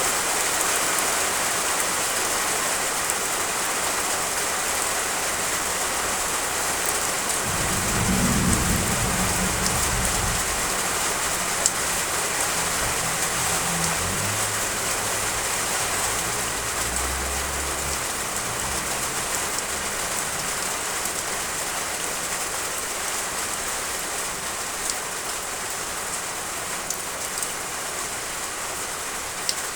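Heavy rain pouring onto roof tiles, a steady even hiss with scattered sharper drop ticks. Thunder rumbles in about a quarter of the way through and fades away over about ten seconds.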